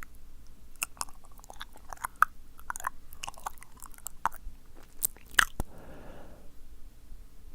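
Close-miked ASMR mouth sounds: wet tongue clicks and lip smacks in quick, irregular succession, followed by a short breath about six seconds in.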